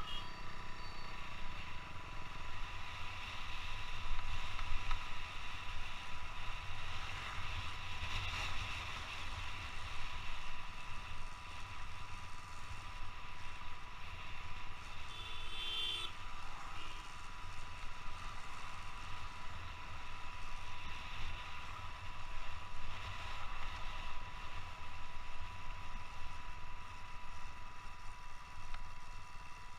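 Motorcycle riding heard from a helmet-mounted camera: steady wind rumble on the microphone mixed with engine and road noise. A brief tonal sound comes about halfway through.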